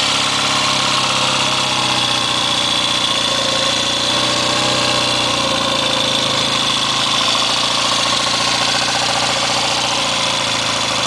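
1968 Triumph TR6R's 650 cc parallel-twin engine running steadily at a fast idle just after a cold start, still warming up on part choke.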